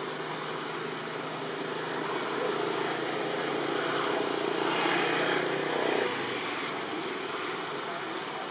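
A motor vehicle's engine passing: its hum builds over a few seconds, then drops away abruptly about six seconds in.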